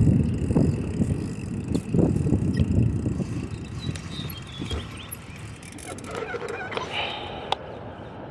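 Rumbling wind noise on the microphone and tyre noise from a moving bicycle, fading as the bike slows, with a few faint squeaks and clicks about six to seven seconds in.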